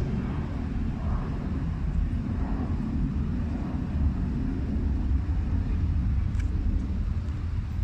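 Steady low rumble of a vehicle in motion, with a faint click about six seconds in.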